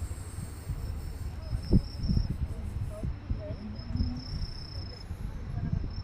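Insects chirring in a steady, high, flickering trill, over a low rumble with a few knocks, the loudest about two seconds in.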